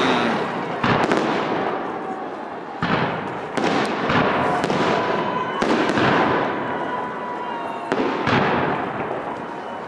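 Aerial fireworks shells of a salute display bursting, about seven loud bangs at uneven intervals, each followed by a long rolling echo that dies away.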